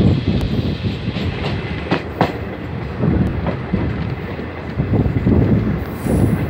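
Passenger train rolling alongside a station platform, its wheels clattering over rail joints and points with a steady rumble and a few sharp knocks, heard from an open coach door.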